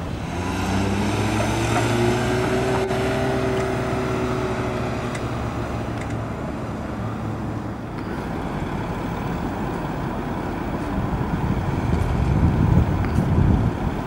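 Seat Ateca SUV's engine pulling away, its note rising briefly, then holding and fading within about five seconds. Tyre and road noise follows, with low rumbling wind gusts on the microphone near the end.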